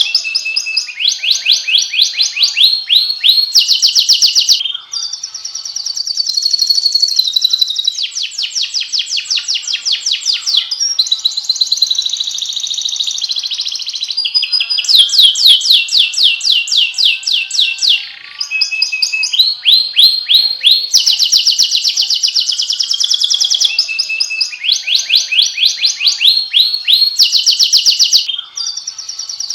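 Canary singing a long, continuous song of fast trills, each phrase a rapid run of repeated notes that changes to a new phrase every second or two, with brief breaks about five, eighteen and twenty-eight seconds in.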